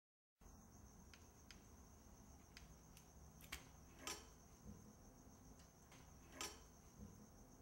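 Near silence: faint room tone with a thin steady high whine, and a handful of small, scattered clicks.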